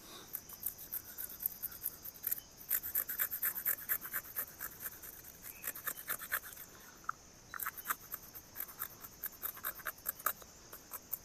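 Knife scraping along a fish being cleaned, quick scratchy strokes in runs with a short lull a little before halfway. A steady high insect trill runs behind it.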